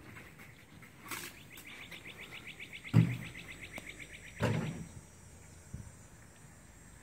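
A songbird's rapid high trill, about ten notes a second, lasting some three seconds, with two dull thumps partway through, the first the loudest sound.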